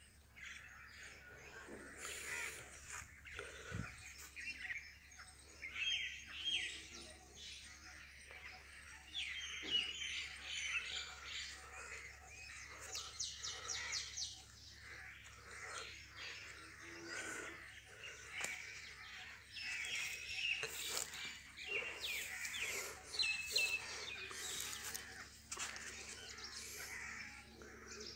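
Birds chirping: many short, high calls and quick runs of notes, over a faint steady low hum.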